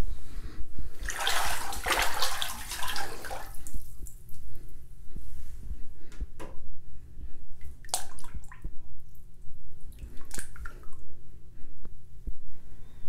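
Water splashing and sloshing in a filled bathtub: a rushing spell about a second in lasting a couple of seconds, then a few scattered small splashes and drips.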